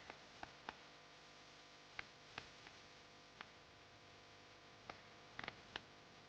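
Near silence broken by scattered faint, sharp clicks at irregular intervals, with a cluster of several quick ones about five and a half seconds in.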